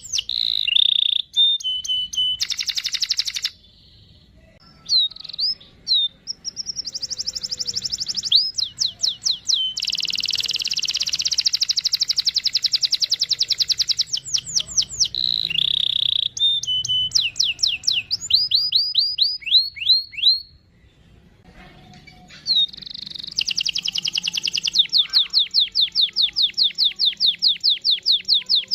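Domestic canary singing long, rapid rolls of evenly repeated high notes mixed with short chirps and sweeping whistles, broken by two brief pauses. A long steady roll runs from about 24 seconds onwards.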